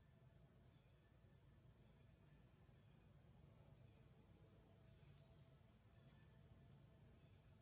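Faint insect chorus in jungle: a steady high-pitched buzz with a short rising sweep repeating every second or so.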